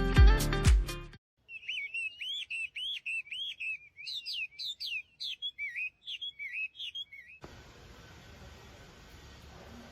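Music with a beat ends about a second in. Then a bird chirps, a quick run of short up-and-down notes, for about six seconds, followed by a steady faint hiss of room tone.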